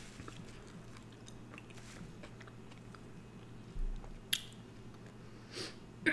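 Close-up chewing of cheese- and sauce-covered fries, with a few sharper mouth clicks about four seconds and again about five and a half seconds in.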